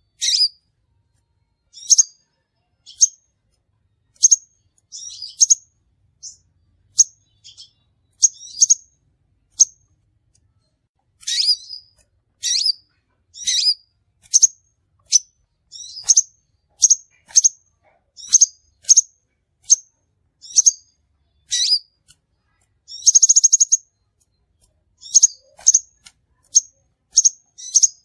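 Crimson sunbird calling: sharp, high-pitched chirps repeated one or two a second at an uneven pace, with a short buzzy trill about 23 seconds in.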